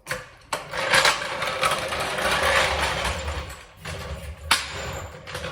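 Floor jack being worked under a tractor: a steady rolling, scraping mechanical noise with a low rumble, broken by a few sharp metal knocks.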